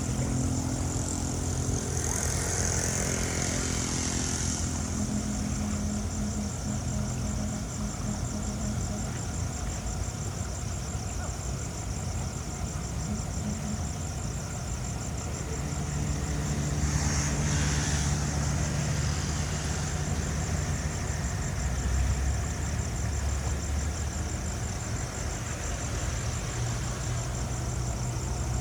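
An engine running steadily, its low note shifting a few times, with two short hissing rushes about two and seventeen seconds in.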